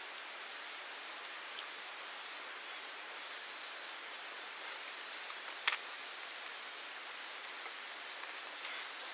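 Steady outdoor background hiss at a campground, with one sharp click a little over halfway through.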